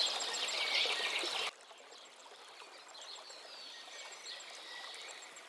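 Outdoor nature ambience with small birds chirping over a steady background hiss. About a second and a half in, the level drops suddenly, and fainter chirping carries on.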